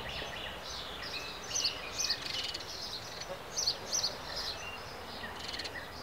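Several birds calling together in short, high chirps and calls that overlap throughout, over a steady outdoor hiss.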